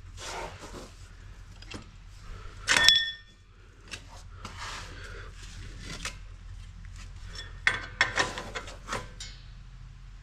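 Hand tools and metal parts being worked: rubbing and scraping, a loud metal clank that rings briefly about three seconds in, and a quick run of knocks and clinks near the end.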